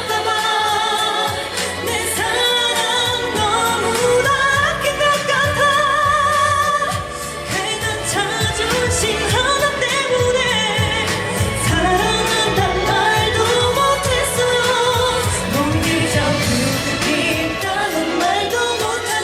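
A woman singing a pop ballad live with vibrato over an instrumental backing track.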